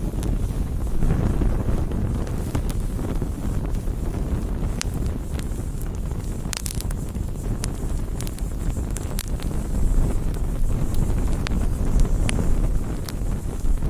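Bonfire burning: a steady low rumble of flames with scattered sharp crackles and pops of burning wood.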